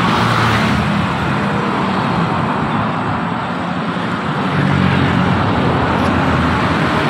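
Steady road traffic noise, the engine and tyre noise of motor vehicles close by, easing a little midway and swelling again about four and a half seconds in.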